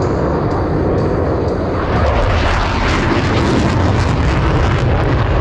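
Boeing F/A-18 Super Hornet jet engines at high power during a tight maximum-performance turn, a loud steady jet roar. About two seconds in it grows louder and harsher, with crackling.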